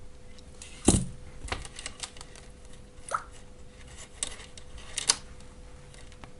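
Scattered clicks and knocks of battery cell blocks and small parts being handled on a workbench, with a sharp knock about a second in and another near five seconds.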